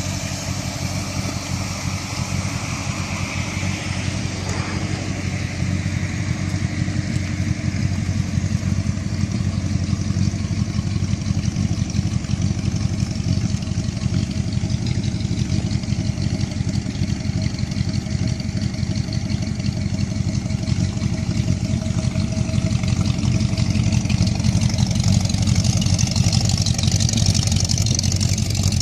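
A car engine running steadily, getting a little louder near the end.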